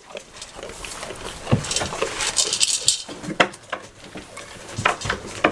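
Rain pattering, with scattered sharp knocks and clicks, the strongest about one and a half, three and a half and five seconds in.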